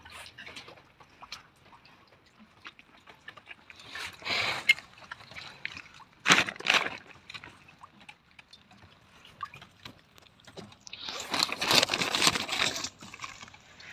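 Organic compost being handled and tipped out, heard as rustling, crumbling noise in three bursts: a short one about four seconds in, another about six seconds in, and a longer, louder one near the end.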